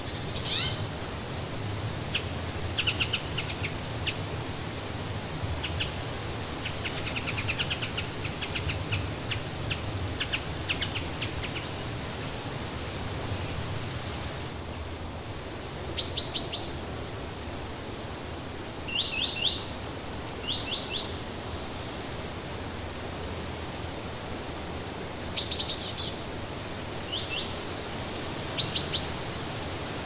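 Wild songbirds singing in short bursts of high chirps and quick trills, the loudest about halfway through and near the end, over a steady background hiss.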